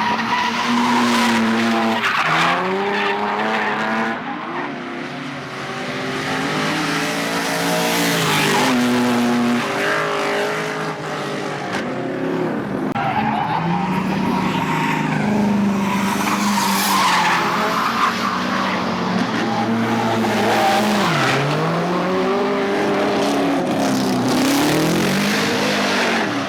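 A Dodge-engined Holden Commodore drift car being driven hard. The engine revs up and down over and over, and the tyres squeal and skid.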